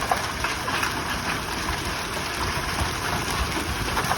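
Heavy rain and toonie-sized hail pelting down in a severe thunderstorm: a steady hiss of rain scattered with the taps of hailstones striking.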